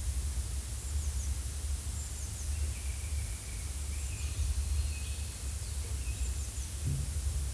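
Forest ambience: a steady low rumble and hiss, with faint, short bird chirps now and then.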